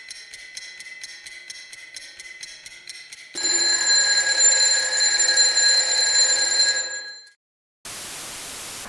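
Mock Emergency Alert System signal breaking into a radio broadcast: about three seconds of rapid electronic pulsing, around five pulses a second, then a loud, harsh, steady alert tone for about four seconds that cuts off abruptly. Broadcast static comes back about a second later.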